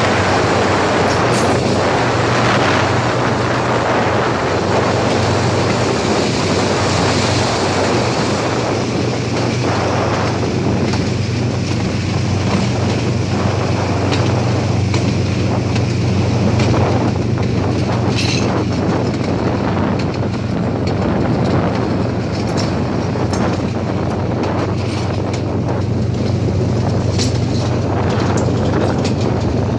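A moving train: the steady rumble of wheels on the track under a constant low drone, with occasional sharp clicks from the running gear.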